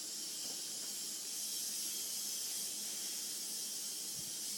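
Lysol aerosol disinfectant spray hissing steadily from the can, held down continuously.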